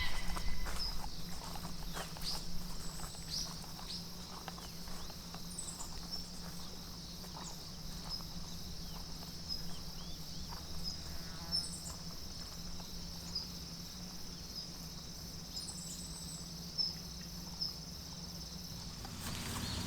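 Insects buzzing steadily at a high pitch, with a few short chirps and scattered small clicks and taps over a low steady hum; it all cuts off just before the end.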